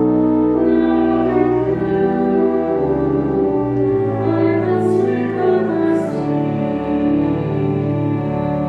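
Choir singing a slow sacred piece in long held notes and chords.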